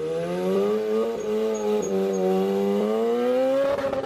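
A car engine held at a steady, fairly high rev, dipping slightly and then climbing near the end, before cutting off suddenly.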